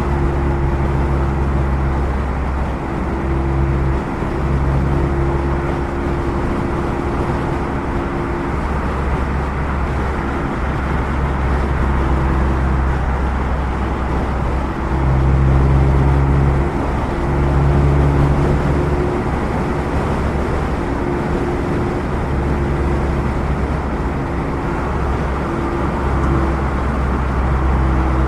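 A 2016 Mazda MX-5 Miata's four-cylinder engine running through a Goodwin Racing RoadsterSport race exhaust, heard from the driver's seat while cruising at a nearly steady engine speed, over tyre and road noise. The exhaust note swells louder twice, about halfway through.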